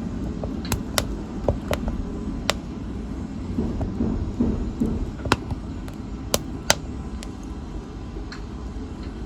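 Wood fire burning in a fireplace: a steady low rush of flame with sharp, irregular pops and snaps of burning wood, most of them in the first seven seconds.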